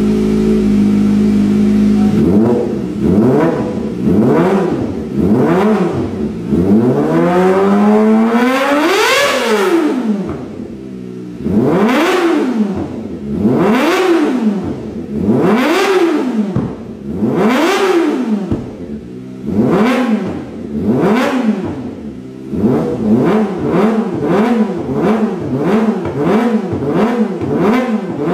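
Kawasaki Ninja ZX250R sport bike's engine being revved through an aftermarket exhaust. It runs steadily at first, then gives a series of throttle blips that rise and fall in pitch, and one long rev climbing high about nine seconds in. It ends with a run of quick, closely spaced blips.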